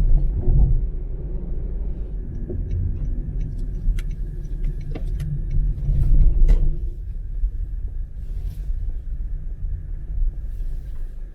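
Low, steady rumble like a car driving, with a few sharp clicks and knocks about four to seven seconds in.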